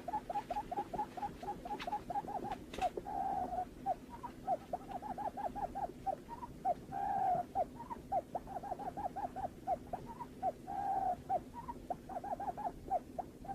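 Barred buttonquail call: a fast series of short hoots, about four to five a second, broken three times by a longer drawn-out note. A faint steady hum runs underneath.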